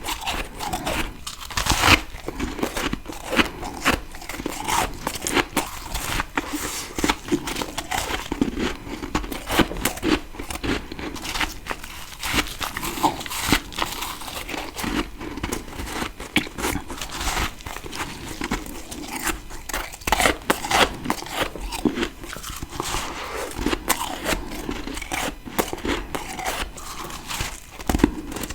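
Ice being bitten and chewed close to the microphone: a dense, unbroken run of crisp crunching and crackling bites.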